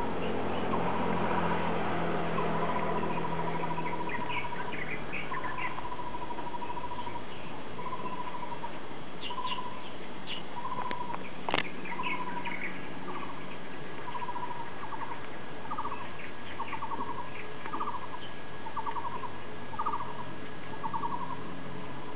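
Birds calling: one repeats a whistled note about once a second, long held notes at first and then shorter swelling ones, while others give brief high chirps. A single sharp click sounds a little past halfway.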